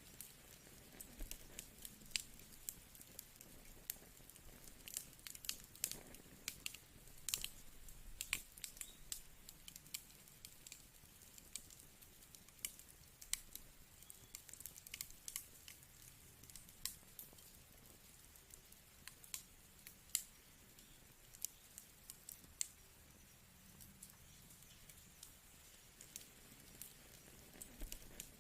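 Wood fire crackling in a fireplace: irregular sharp pops and snaps, several a second in bursts, over a soft low hiss.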